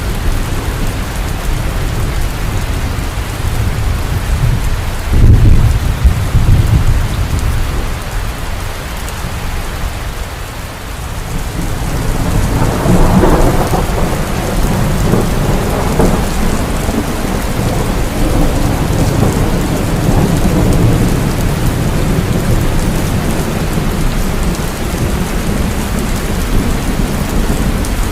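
Heavy rain falling steadily in a thunderstorm. A loud low thunder boom comes about five seconds in, and a long rolling rumble of thunder builds from about twelve seconds in.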